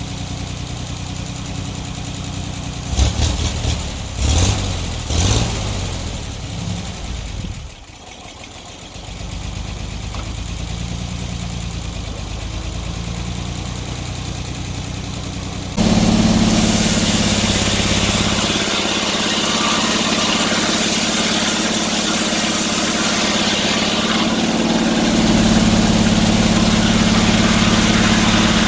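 Sawmill engine idling, with a few short louder bursts a few seconds in and a brief dip. About halfway through it abruptly jumps to louder, harder running, a steady drone with a hiss over it.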